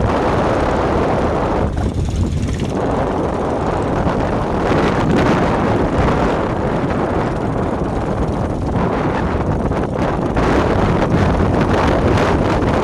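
Motor fishing boat engines running steadily, mixed with wind buffeting the microphone.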